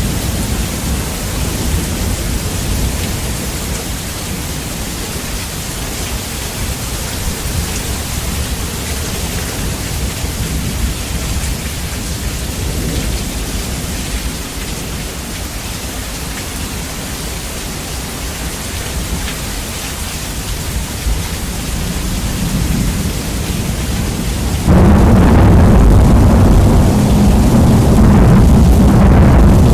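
Steady heavy rain with thunder rumbling, bass-boosted. About 25 seconds in, a sudden loud boom of thunder jumps the sound to near full-scale loudness and holds, heavy in the low end.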